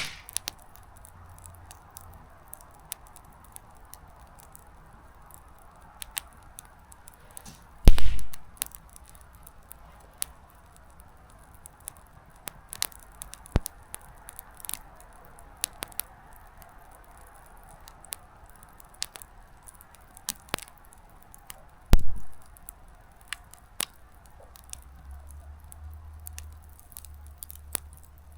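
Small wood campfire crackling: frequent sharp snaps over a faint steady hiss of flame, with two much louder pops of bursting wood, about a third of the way in and again about three quarters of the way in.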